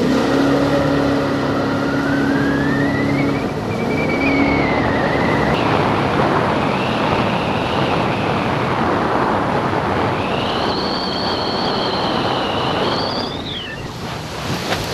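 Moggaro 600WJ aluminium jet boat running at speed: a steady engine note with a high whine that climbs and falls over rushing water. Near the end the whine drops away sharply as the throttle comes off.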